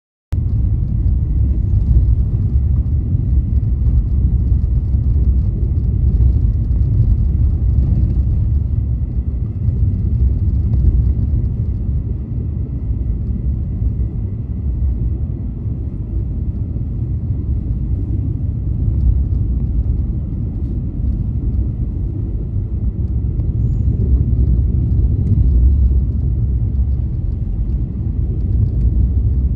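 A car driving, a steady low rumble of engine and tyres on the road, cutting in abruptly just after the start.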